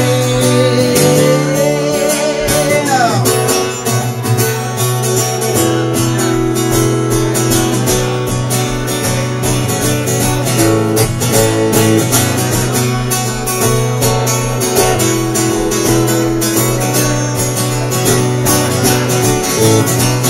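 Acoustic guitar strummed in a steady rhythm through an instrumental break in the song. A held sung note slides down and ends about three seconds in.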